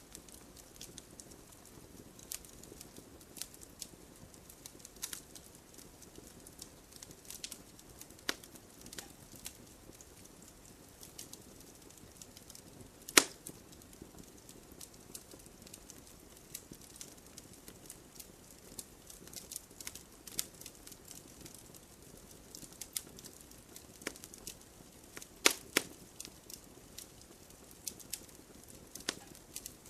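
Wood campfire crackling, with irregular sharp pops over a faint low hiss. The loudest pop comes about 13 seconds in, and two more come close together near 25 seconds.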